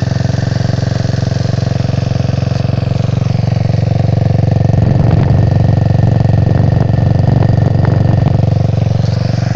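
Freshly built GY6 scooter engine, stroked to 193cc with a Taida 4-valve head, running at idle through a wide-open exhaust. It runs a little harder from about halfway and settles back near the end.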